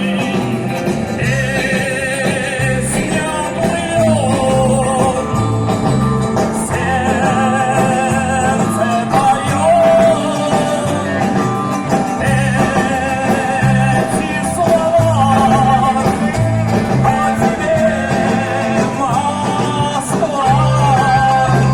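Live rock-pop band music: a steady bass and drum beat under a wavering sung or lead melody line.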